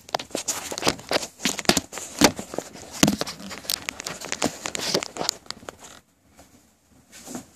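Handling noise from a phone or camera being moved and set down: a rapid jumble of clicks, knocks and rustles that stops about six seconds in, followed by a faint knock near the end.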